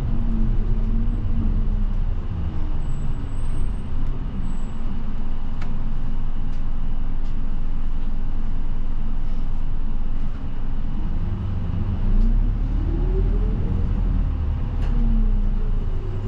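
Route bus engine and road rumble heard from inside the cabin. The engine note drops about a second in, holds low, then rises steadily as the bus speeds up and falls back near the end with a gear change. A few faint clicks or rattles are heard now and then.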